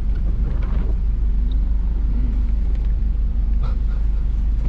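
Steady low rumble of a vehicle driving along, with no change in pace.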